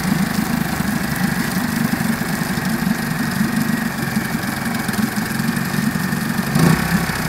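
Suzuki 2.5 hp four-stroke single-cylinder outboard motor idling steadily, with a brief rise in level near the end.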